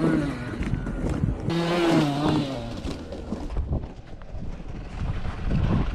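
Yamaha YZ85 two-stroke dirt bike engine revving in two bursts, its pitch falling off after each, with wind rumble on the microphone.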